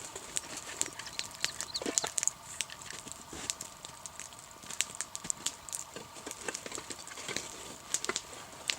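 Wood campfire crackling, with frequent sharp, irregular pops and snaps.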